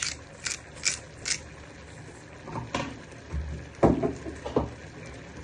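Black pepper being added over a pan of chicken: four short hissy strokes about every 0.4 s, then a few soft knocks in the second half.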